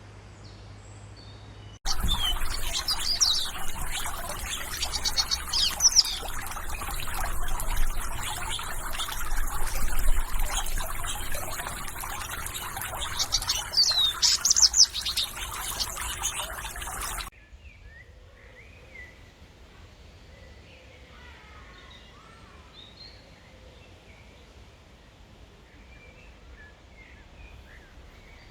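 Many small birds chirping and twittering together over a steady hiss. The loud chorus cuts off abruptly a bit past halfway, leaving only faint, scattered chirps.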